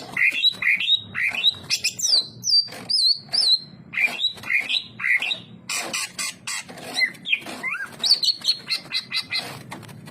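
Cucak ijo (greater green leafbird) in full song: a fast, unbroken run of varied whistled notes, many sliding up or down, mixed with short sharp clicks.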